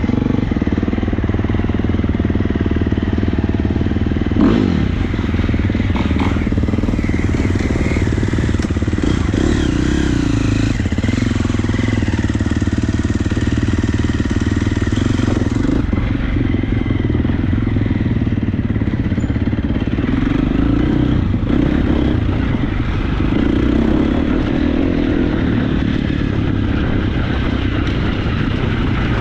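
Motocross bike engine running continuously while being ridden, its note rising and falling as the rider works the throttle, with a sharp knock about four and a half seconds in.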